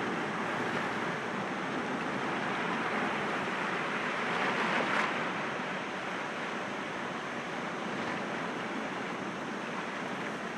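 Sea waves breaking gently against rocks: a steady wash of surf that swells to a peak about five seconds in and then eases off.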